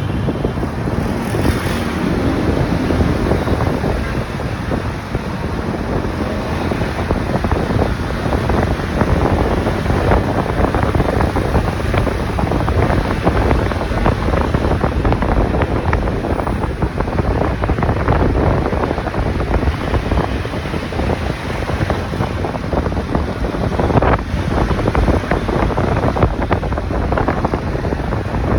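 Motorcycle riding along, its engine and road noise heard under steady wind buffeting the microphone.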